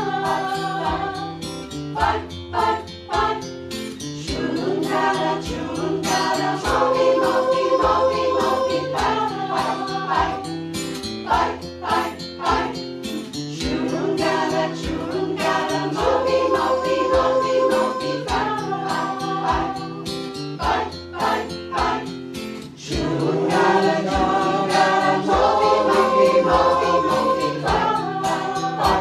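Mixed choir singing a chant-like song in Yugambeh language in held phrases, over a regularly strummed accompaniment.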